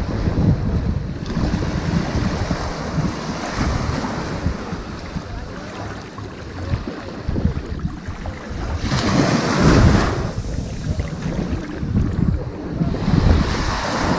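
Ocean waves washing onto a sandy beach in a continuous rushing wash that swells and eases, with one larger wave breaking about nine seconds in. Wind buffets the microphone with a low rumble.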